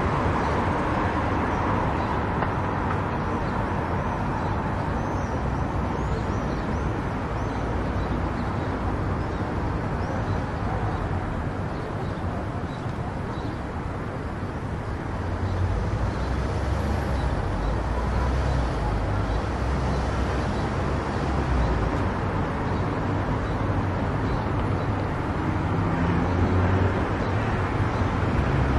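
Steady road and tyre noise of a car driving on an expressway, with a low rumble that dips slightly around the middle and grows again afterwards.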